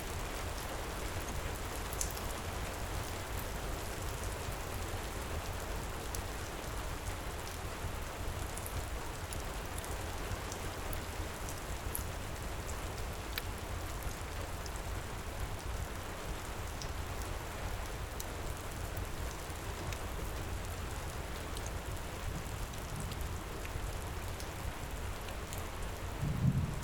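Heavy rain falling steadily, with scattered sharp crackles from a fireplace. A short low thump comes near the end.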